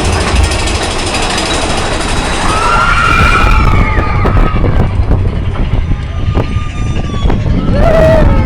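Mine-train roller coaster running along its track: a loud, steady low rumble and rush with scattered clattering clicks, and a few high wavering tones that rise and fall about three seconds in.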